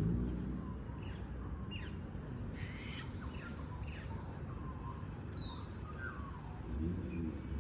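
Several birds chirping and calling in short rising and falling notes over a steady low rumble, with a low engine sound swelling near the end.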